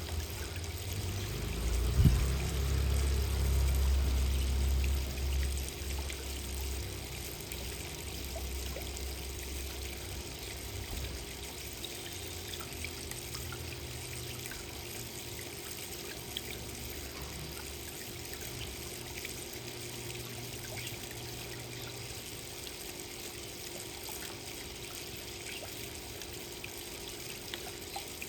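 Steady trickle of running water, with a low rumble through the first few seconds and a single sharp knock about two seconds in.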